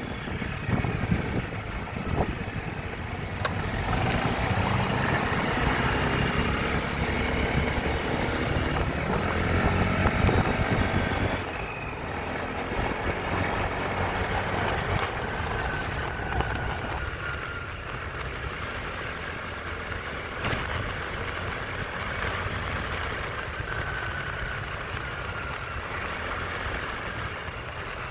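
Motorcycle engine running during a ride, with road traffic around it; the engine pitch slowly rises and falls, and the sound is louder for the first dozen seconds, then drops a little.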